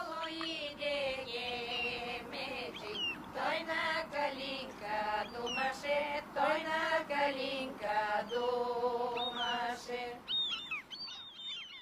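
Wordless vocal music: held, slowly gliding sung notes, with short high bird chirps that become more frequent near the end.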